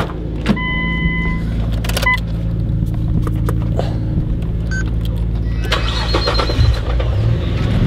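Nissan Skyline R34 GT-R's RB26 twin-turbo straight-six idling steadily through a new full-titanium Midori Seibi exhaust. The door latch clicks open about half a second in, followed by a short electronic beep.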